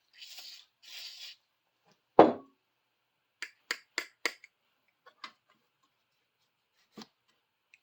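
A pair of old pliers being handled: two brief rubbing hisses, then a single loud knock a couple of seconds in, followed by four quick metallic clicks about a third of a second apart and a few fainter clicks afterwards.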